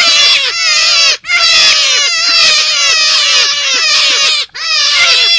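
Forest rabbit calls on a looped lure recording: many short, high cries sliding downward in quick succession, in phrases of a few seconds broken by brief gaps.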